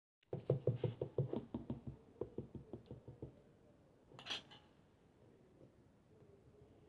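Clay slime being pressed and squished by hand: a quick run of sticky pops and clicks, about four or five a second, fading over about three seconds, then a single sharper crackle about four seconds in.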